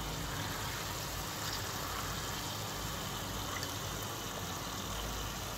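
Chicken curry frying steadily in its ghee in a wok, a soft even sizzle. The ghee has separated from the gravy, the sign that the masala is cooked through.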